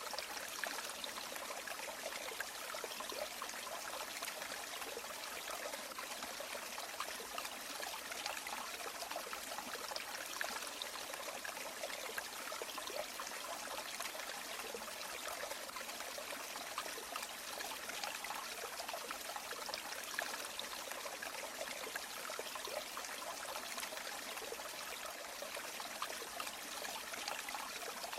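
River water flowing, a steady rush with many small trickles and splashes in it.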